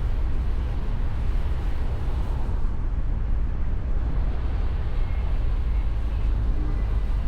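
Steady rumble of wind and road noise from a Mustang convertible on the move, heaviest in the low end.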